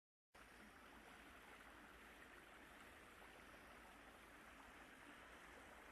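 Mountain stream flowing over rocks, a steady, quiet rush of water that starts abruptly about a third of a second in.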